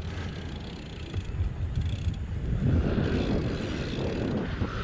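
Wind buffeting the helmet-mounted action camera's microphone while riding a BMX bike on a dirt track: a rough, uneven rush that grows louder about halfway through.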